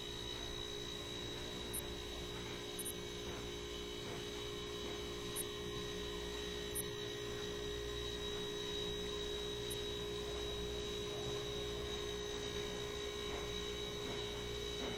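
Steady electrical hum with a faint low rumble under it, unchanging throughout, and a few faint high ticks.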